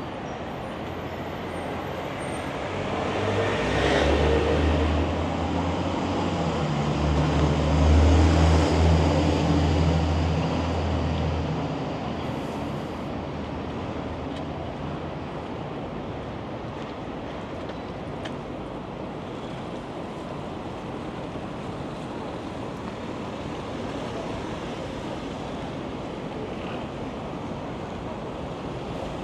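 City street traffic: a passing motor vehicle's engine rises to its loudest about eight seconds in, its low pitch stepping up, then fades, leaving a steady hiss of traffic and wind.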